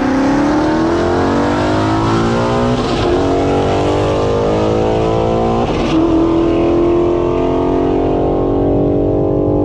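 Twin-turbo C8 Corvette's 6.2-litre V8 at full throttle on a quarter-mile run. The engine note climbs through each gear, with quick upshifts about three and six seconds in, then rises more slowly in the next gear.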